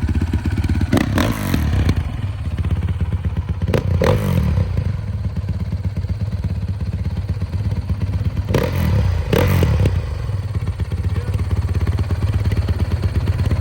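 Honda CRF450R dirt bike's single-cylinder four-stroke engine idling through its twin exhaust pipes. It is blipped briefly a few times: twice about a second in, once at about four seconds, and twice around nine seconds.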